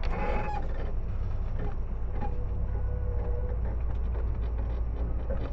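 Tobu 10030 series electric train running between stations, heard from inside the car: a steady low rumble of wheels and running gear.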